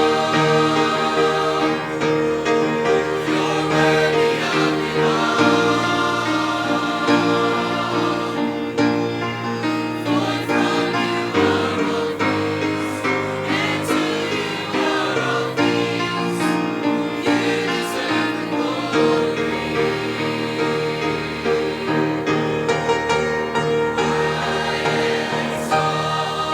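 A mixed choir singing a gospel worship song in harmony, holding chords over a low instrumental accompaniment.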